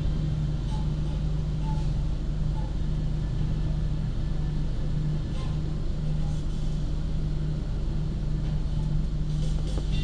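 Steady rumble and low hum of the Argo Bromo Anggrek express running through a station, heard from inside the passenger coach.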